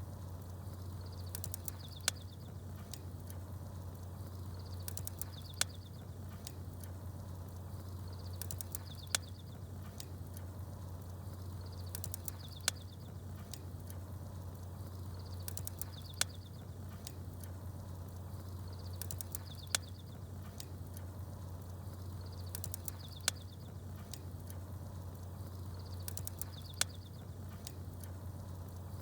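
Campfire crackling with a few sharp pops, and small birds chirping. The same few-second pattern of pops and chirps comes round about every three and a half seconds, over a steady low hum.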